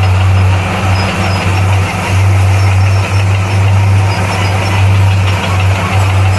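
A bulldozer's diesel engine running steadily under load, a deep, even hum with the clatter and noise of the working machine over it.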